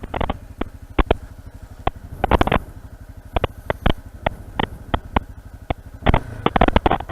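Honda CRF single-cylinder dirt bike engine running at low revs, with short gusts of wind buffeting the microphone.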